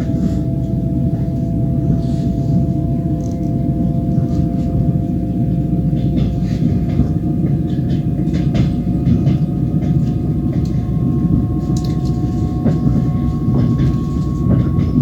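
Passenger train running on the rails, heard from inside the carriage at the window: a steady low rumble of the wheels with scattered clicks, and a thin whine that slowly rises in pitch, joined by a higher one about halfway through.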